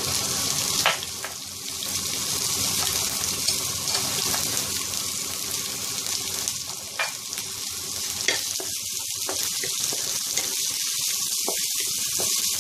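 Chopped red chillies and coarsely pounded garlic sizzling steadily in hot oil in a wok as they are fried until fragrant, with a few sharp clicks.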